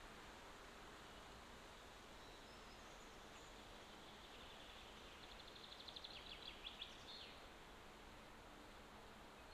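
A bird sings a short, rapid trill of high notes about five seconds in, lasting around two seconds, over a faint steady hiss; a few faint high chirps come a couple of seconds earlier.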